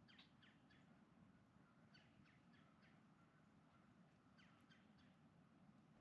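Faint bird calls: three quick bursts of three or four short, sharp notes each, near the start, about two seconds in and about four and a half seconds in, over a steady low background rumble.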